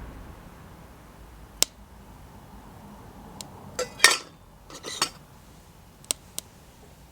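Metal camp cookware and cutlery being handled: a few sharp clinks, then two short clattering scrapes about four and five seconds in, the first the loudest, then two more clinks near the end.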